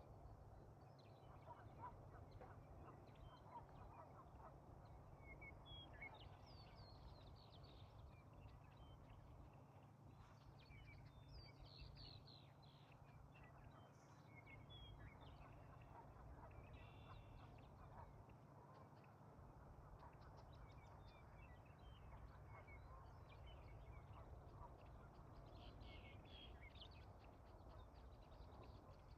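Faint birds calling now and then, short chirps and calls scattered throughout, over a low, steady outdoor rumble.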